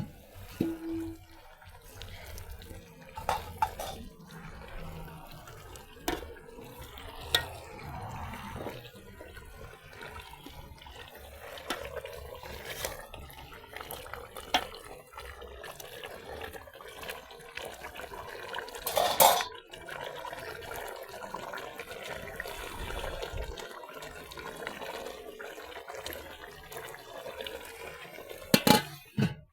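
Water splashing and running with pots and dishes clinking and knocking against each other, as in washing up. The loudest knock comes about two-thirds of the way through, and there is another quick pair near the end.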